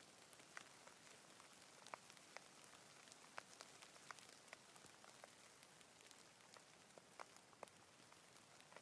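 Faint light rain: a soft steady hiss with individual drops ticking irregularly, a few distinct taps each second.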